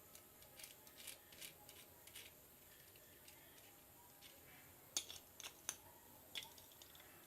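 Faint, scattered clicks and taps of small parts being handled as a new switch is fitted into a mixer grinder, with a quick cluster of clicks about five seconds in.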